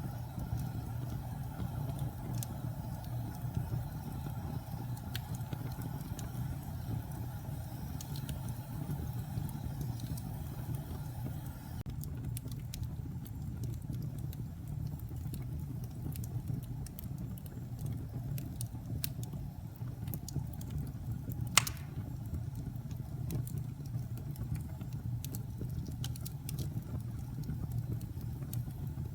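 Wood fire burning in a fireplace: a steady low rumble with scattered crackles and small pops, and one louder sharp pop about two-thirds of the way through.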